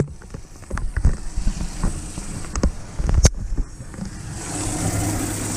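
Boat live-well recirculating pump running, moving water around the well, with a rushing, churning sound that grows louder near the end. Several knocks and clicks, the sharpest about three seconds in, from the live-well screens being handled.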